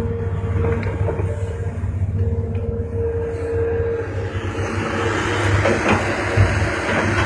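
Diesel engine of heavy earthmoving machinery running steadily under a steady whine, with a hiss building and a couple of knocks in the second half.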